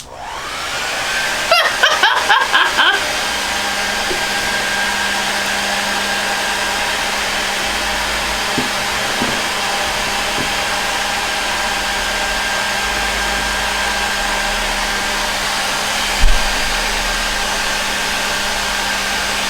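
Hair dryer blowing air into a soft bonnet hood attachment: it starts up at the beginning and runs steadily. A few rattles about two seconds in and a single knock near the end.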